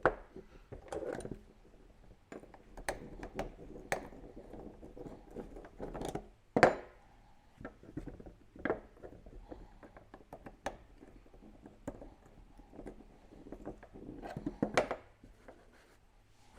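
Scattered clicks and knocks of small metal pump parts and hand tools being handled during a pressure washer pump rebuild, with a louder knock about six seconds in and another near the end.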